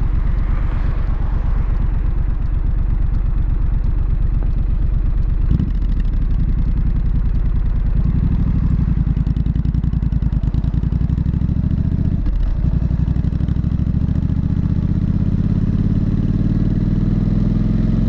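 Triumph Street Scrambler's 900 cc parallel-twin engine and exhaust running under way, broken briefly twice, at about five and a half and twelve seconds in, then rising in pitch over the last few seconds as it accelerates.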